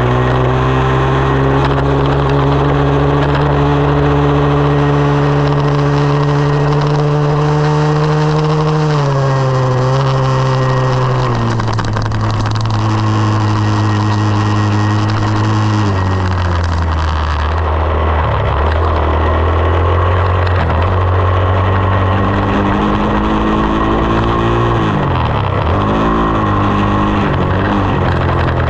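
Single-cylinder four-stroke engine of a 2020 SSR 189 dirt bike running under way, heard over wind noise. The engine note climbs slowly, drops in steps three times partway through, and wavers up and down near the end.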